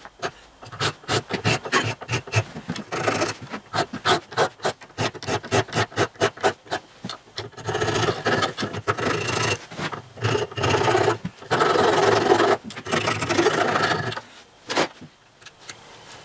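Hand file rasping on a metal oil-line tube, filing down a domed-up joint: quick short strokes at first, giving way to longer, slower strokes about halfway through. A single sharp tap comes near the end.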